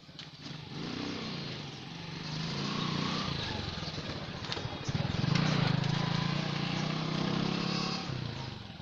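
A small motorcycle engine running close by, growing louder through the middle and fading away near the end, like a bike passing.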